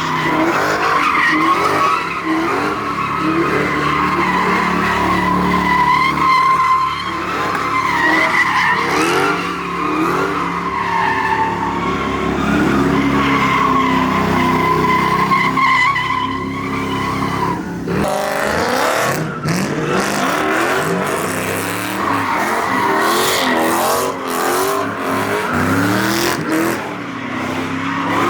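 Car tyres squealing at length while the engine revs up and down, as a car does donuts or a burnout. The squeal fades about eighteen seconds in, and revving goes on.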